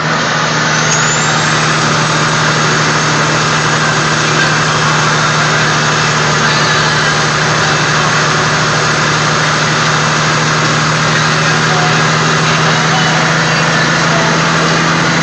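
Kenworth log truck's Caterpillar 3406E straight-six diesel running at a steady, unchanging speed, with a steady hiss over it.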